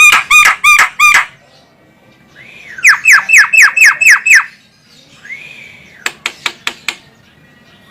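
Javan myna calling: two quick series of harsh, arched notes at about four a second, then a softer single call and a run of six sharp clicks.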